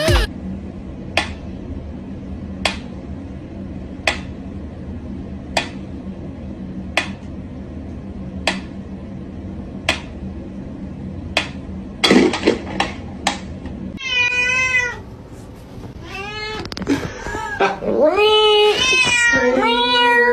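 A domestic cat meowing: several drawn-out, wavering meows start about two-thirds of the way in and get louder toward the end. Before that, a sharp tick repeats about every second and a half over a steady hum, with a short clatter just before the meows.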